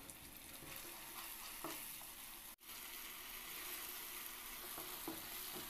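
Tomato and spice masala sizzling faintly in oil in a nonstick wok while a wooden spatula scrapes through it as it is stirred. The sound cuts out for an instant about halfway through.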